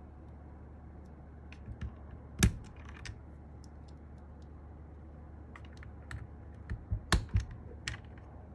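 Keys of a Sky87 mechanical keyboard being pressed in scattered, irregular strokes, with one loud clack about two and a half seconds in and a quick run of keystrokes near the end.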